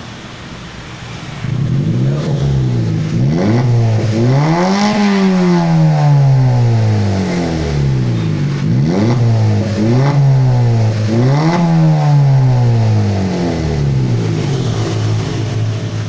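Honda Brio engine blipped through a custom aftermarket exhaust and muffler: about five throttle revs rising and falling over a steady idle, the biggest one about 5 s in with a slow fall back, settling to idle near the end.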